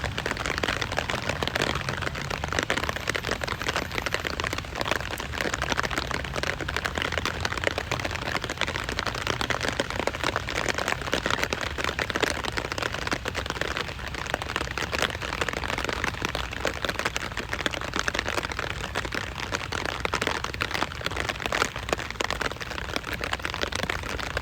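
Steady rain falling, a dense, even crackle of countless drops striking a surface, unchanging throughout.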